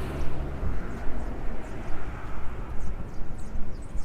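Street ambience: a passing car's low rumble fades out within the first second. Then come footsteps on pavement at a walking pace, over a steady rushing noise.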